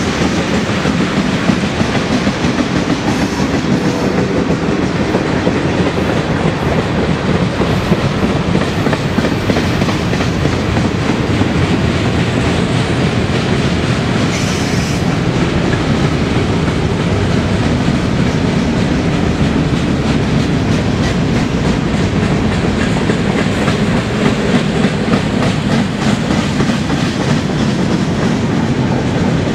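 Freight cars (tank cars and covered hoppers) rolling past on a steep mainline grade: a loud, steady noise of steel wheels running on rail.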